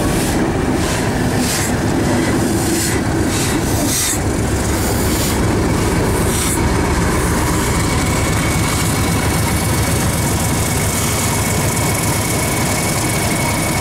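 A train of an LNER B1 steam locomotive and a BR Class 31 diesel passing slowly. The diesel's engine runs steadily, the wheels squeal and click over the rail joints, and a run of short, sharp hisses comes in the first half.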